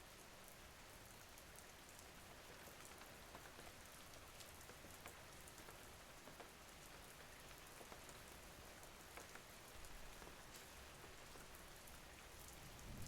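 Faint, steady rain: an even hiss with scattered ticks of single drops. A low rumble swells in just before the end.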